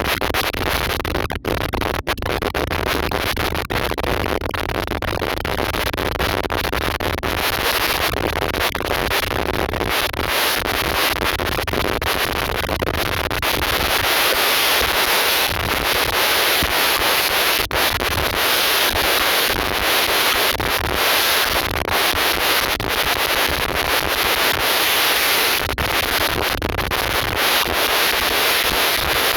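Steady rushing noise of an airliner in flight, with scattered rubbing and crackling on the microphone. It gets a little louder about halfway through.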